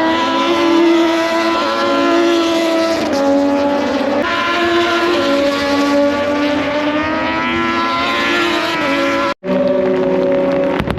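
Racing motorcycles running at high revs on the circuit, the engine pitch climbing and then stepping down as they change gear. The sound breaks off for a moment about nine seconds in.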